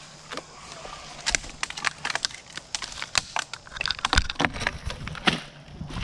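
Footsteps through dry brush and fallen branches, with twigs snapping and cracking underfoot at irregular intervals.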